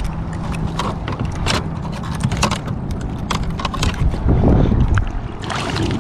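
Wind buffeting the microphone as a low rumble, with many scattered sharp clicks and knocks of handling on the kayak, busiest near the end.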